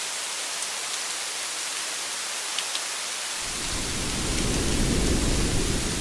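Steady rain hiss on a car, with a few faint drop ticks. A low roll of thunder comes in about halfway through, swells and peaks near the end.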